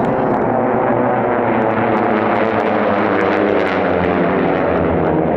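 North American AT-6/SNJ racing aircraft with Pratt & Whitney R-1340 nine-cylinder radial engines at full race power, a loud, steady propeller-aircraft drone whose pitch drifts slowly as they move around the course.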